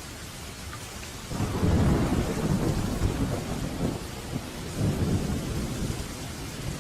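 Steady rain with a roll of thunder that starts suddenly about a second in and rumbles on for several seconds, swelling again near the end.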